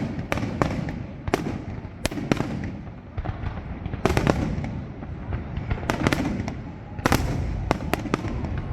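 Fireworks display going off: a rapid, irregular run of sharp bangs and cracks, sometimes several within a second, over a low continuous rumble.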